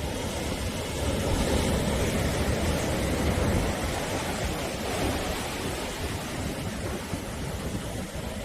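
Ocean surf: waves washing continuously onto the shore in a steady roar with a deep rumble, swelling slightly about two seconds in and again about five seconds in.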